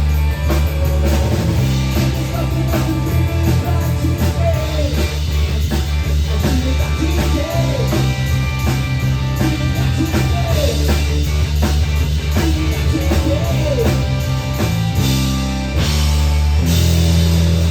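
Live rock band playing a song: drum kit, bass and electric guitar, with bending melodic lines over a steady beat.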